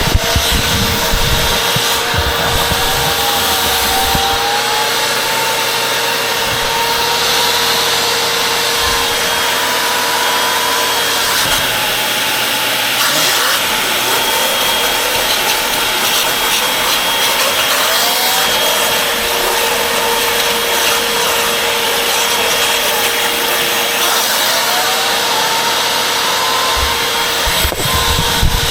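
Vacuum cleaner running steadily with a high whine, its nozzle or tool rubbing and scrubbing over a surface; the whine's pitch drifts up and down as the airflow changes.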